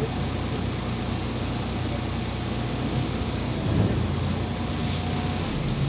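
MAZ 203.065 city bus on the move, heard from inside: a steady diesel engine drone with road noise, a little louder for a moment about four seconds in.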